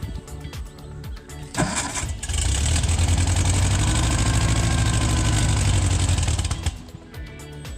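Gehl Hydracat 4400 skid steer's engine running. It sounds a sharp burst about a second and a half in, then runs much louder and steadier for about four seconds before dropping back to a lower idle.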